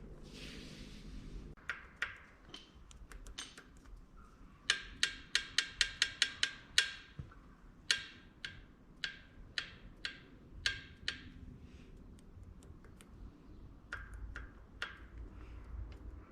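Sharp metallic taps, as from a tool striking metal. A quick run of about ten comes in two seconds, then single taps follow roughly every half second to second.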